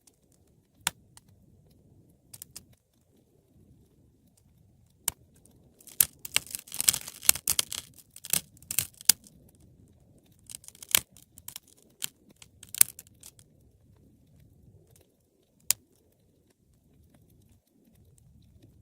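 Wood fire crackling in a fireplace: scattered sharp pops, a dense run of crackling about six seconds in that lasts some three seconds, and a few more pops after it, over a faint low rustle of the flames.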